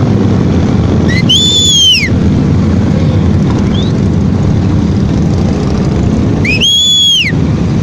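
Steady rumble of motorcycle engines and wind on the ride. A high whistle, rising and then falling, cuts through it twice: once near the start and once near the end.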